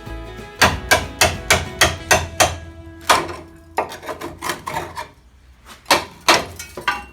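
Hammer blows on the steel chassis of a Land Rover, knocking off the reinforcement plates over a rear chassis rail joint: a quick run of about seven strikes, then scattered blows and two loud ones near the end, with background music underneath.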